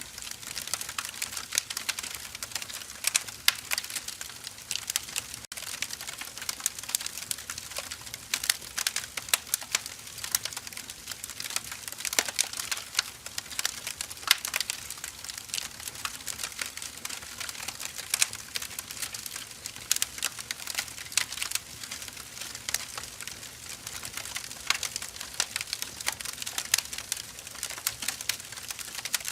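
Burning firewood crackling continuously, with dense, irregular sharp snaps and pops.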